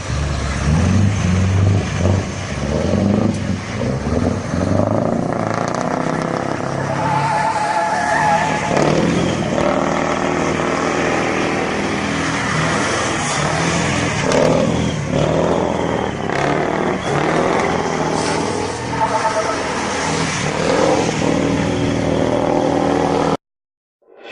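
Heavy truck diesel engine running and revving under load, its note rising and falling, with tyre and road noise; the sound cuts off abruptly near the end.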